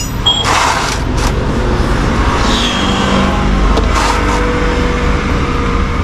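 Steady low rumble of a motor vehicle engine running, with a few short knocks and clinks on top.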